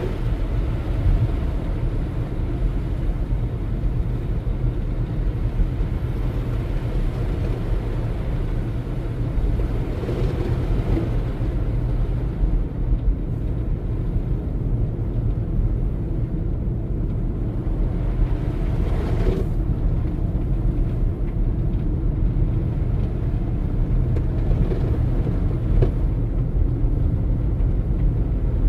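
A car driving on a snow-packed highway: a steady low rumble of engine and tyre noise, with brief swells of louder noise about ten seconds in and again near twenty seconds.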